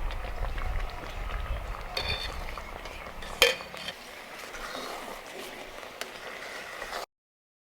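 Cooking sounds: a metal utensil stirring and scraping in a pot, with a low rumble for the first few seconds and a sharp clink about three and a half seconds in. The sound cuts off suddenly near the end.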